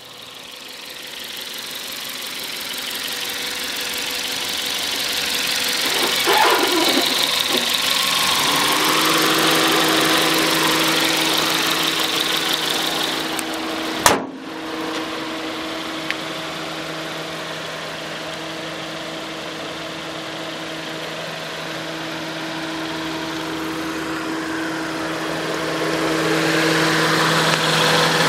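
FAW V5's 1.5-litre inline-four engine idling steadily, with a single sharp click near the middle.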